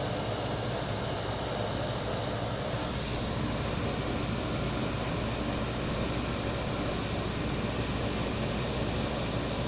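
Window air conditioner running steadily: the Toshiba rotary compressor hums under the even rush of the fan. Its fan motor struggles on medium and low speed, which the owner puts down to a lack of oil.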